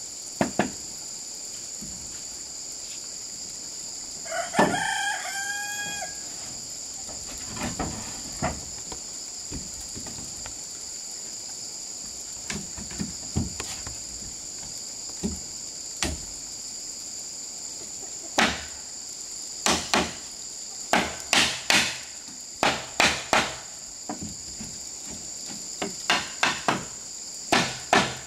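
Steady high buzz of insects, with a rooster crowing once about four seconds in. Scattered knocks follow, and then, from about two-thirds of the way through, regular hammer blows on wood, one to two a second and quickening near the end.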